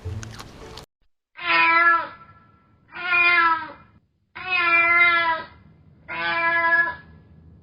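A cat meowing four times in a row, each meow under a second long and evenly spaced, starting about a second and a half in.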